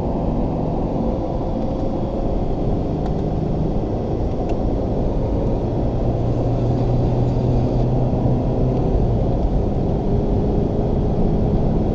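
Alfa Romeo car's engine pulling under full throttle, heard from inside the cabin as a steady drone with road and wind noise.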